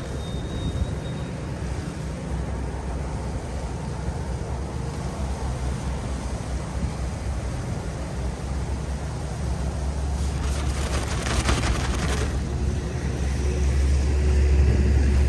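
City street traffic rumbling low and steadily, swelling louder near the end. A brief rough, crackling hiss comes about two-thirds of the way through.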